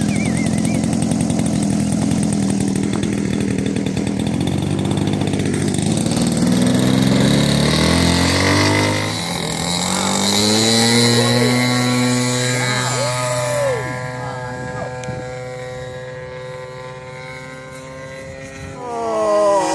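Radio-control model airplane's four-stroke engine running. About a third of the way in, its pitch rises smoothly over several seconds as the throttle is opened, then holds a steady high note that slowly grows quieter.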